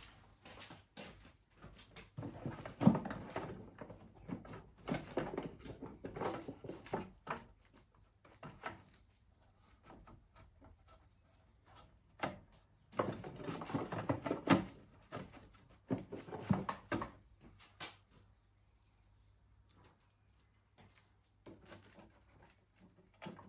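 Hand work on small lawn mower parts: irregular clicks, knocks and rattles of parts and tools being handled, in two busy stretches with quieter gaps. Faint bird calls come from outside.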